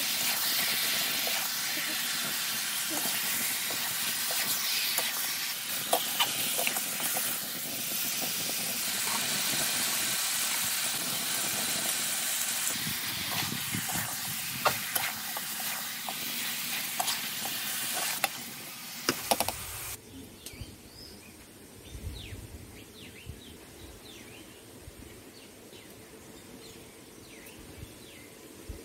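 Chicken curry frying in a metal kadai, with a steady sizzle and the metal spatula scraping and clicking against the pan as it is stirred. About 19 seconds in, the sizzle stops and gives way to a much quieter background with a low rumble.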